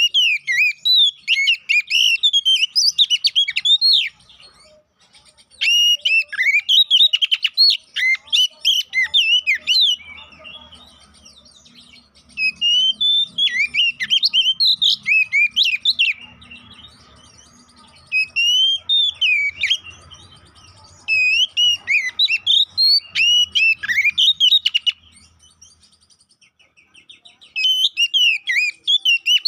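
Oriental magpie-robin singing in loud bursts of rapid, varied whistled phrases, each a few seconds long, with short pauses between them: six bursts in all. This is aggressive song, of the kind played to provoke a rival male into singing.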